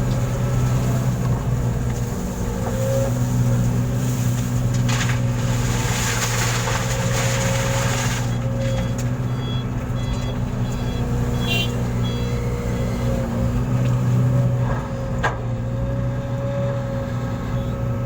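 A heavy truck's engine running at a steady idle. About five seconds in there is a few seconds of hissing noise, and faint short high tones come through after it.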